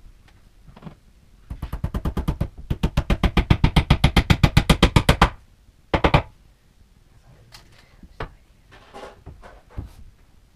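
Hammer rapidly tapping a nail into the bookcase panel, a quick even run of about eight strikes a second for nearly four seconds, growing louder, then a short flurry of taps a moment later.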